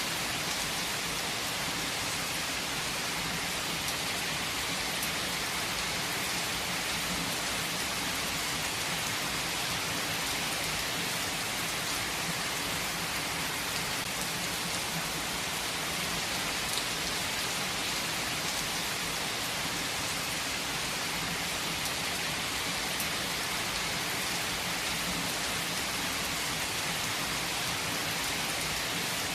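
Heavy rain falling steadily, a dense even hiss of rain on surfaces with fine drop ticks through it.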